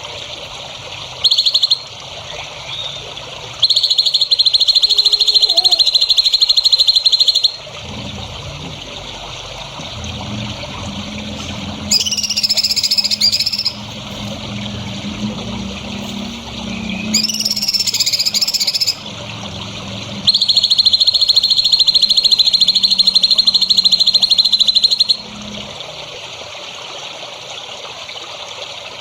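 Recorded songbird calls of the kind used to train caged birds. Two long, fast buzzing trills, one of about four seconds and one of about five, frame two short warbling song phrases, over a steady hiss.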